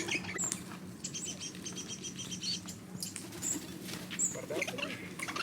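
Birds chirping: a quick run of short, evenly spaced high chirps about two seconds in, and a few brief, very high whistled notes.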